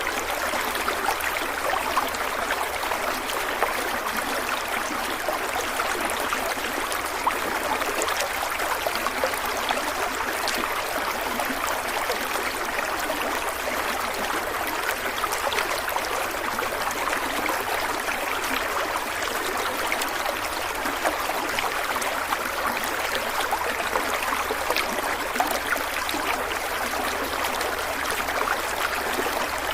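A stream of water running and trickling steadily, with small splashes and gurgles.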